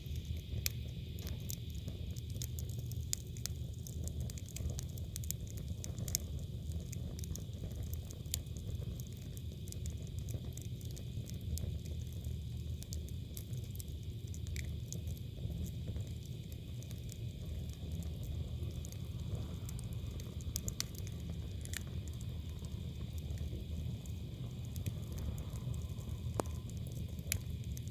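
Firewood burning in a brazier, crackling with scattered sharp pops and snaps throughout over a steady low rumble.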